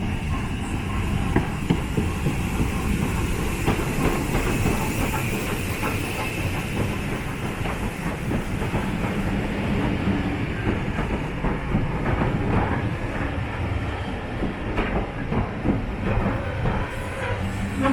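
Heritage passenger train running along the line: a steady rumble with the wheels clicking over the rail joints.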